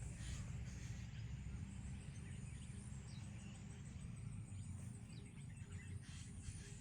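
Outdoor ambience: a steady low rumble with scattered faint, short bird chirps and a thin steady high tone.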